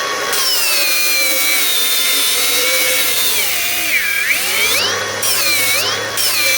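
Milwaukee M18 Fuel 3672-20 cordless angle grinder with a 36-grit disc, grinding on solid billet metal. Its motor whine drops sharply in pitch about four seconds in and dips twice more near the end as it is pressed hard into the work, bogging down but not stalling.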